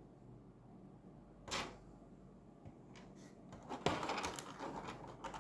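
Light plastic clicks and rustling from an action figure's parts being handled. There is a single click about a second and a half in, then a run of small clicks from about four seconds.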